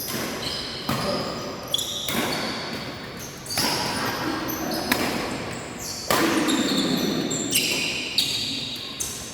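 A badminton rally: rackets striking the shuttlecock in a string of sharp smacks about a second apart, each echoing in the hall.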